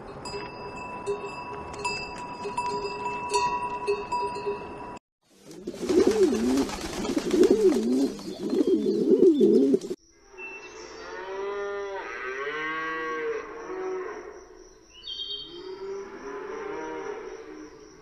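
Cattle mooing: one long, loud moo with a wavering pitch from about five to ten seconds in, then a run of shorter calls from the herd. Before the moo comes about five seconds of steady ringing tones with light clicks.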